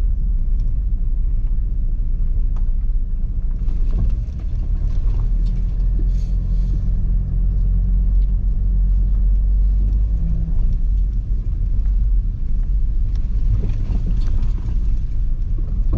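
Car driving over a rough stony track, with a steady low rumble from the engine and tyres. Stones bounce off the tyres with scattered sharp pings, and there is a gritty crunch of gravel at times.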